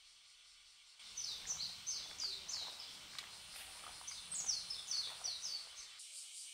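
A songbird singing two short phrases, each a quick run of five or six falling high notes, about a second and a half apart, over a low steady outdoor rumble.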